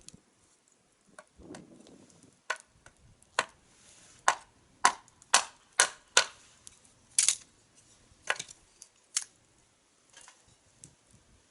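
Burning wood crackling and popping in a campfire: about a dozen sharp, irregular pops, loudest through the middle seconds, over faint crackle.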